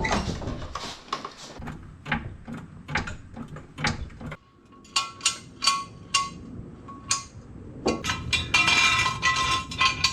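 A series of sharp metallic clicks, clinks and knocks, like hard metal objects being handled and set down, growing denser with some ringing near the end.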